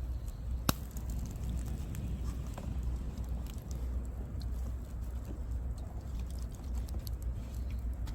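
Oak-wood campfire crackling, with scattered small pops and one sharp snap under a second in, over a steady low rumble.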